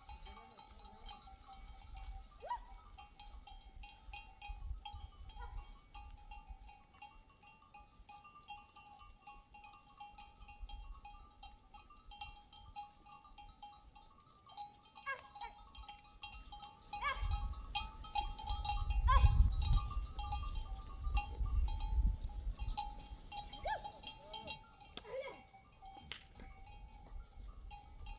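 Bells on grazing sheep and goats clinking and ringing steadily, with a few short bleats. A low rumbling noise is loudest from about two-thirds of the way in for several seconds.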